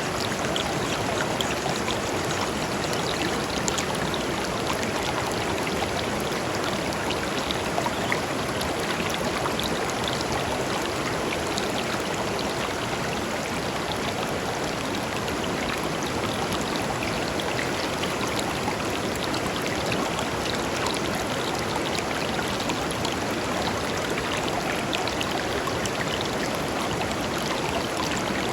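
A small river flowing over stones: a steady rush of water with faint little splashes and trickles in it.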